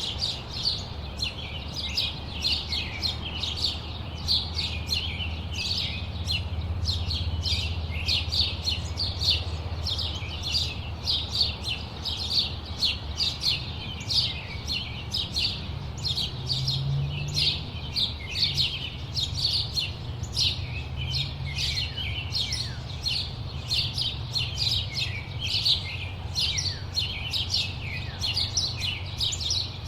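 A flock of small birds chirping continuously, many short, quick, overlapping calls with no pause, over a low steady rumble.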